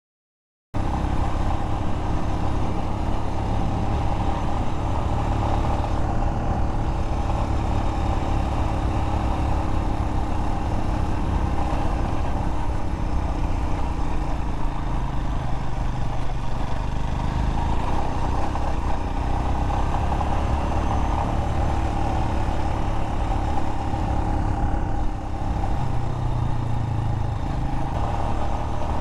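Royal Enfield Himalayan motorcycle's single-cylinder engine running steadily under way, with a heavy low rumble of wind and road noise. The sound cuts in suddenly just under a second in.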